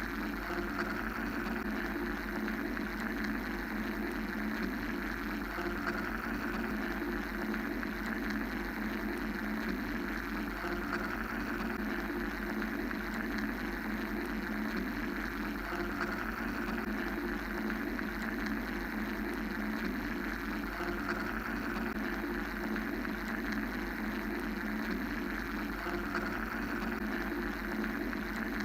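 Steady mechanical white-noise drone for sleep, a low hum and a higher hiss layered without change, with a gentle swell in the hiss about every five seconds.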